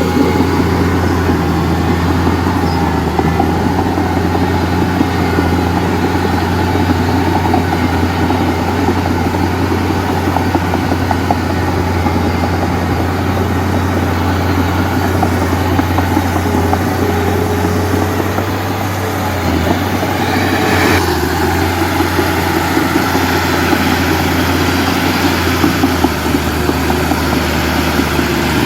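Heavy diesel engine running steadily at a constant speed, with a brief dip in loudness about nineteen seconds in.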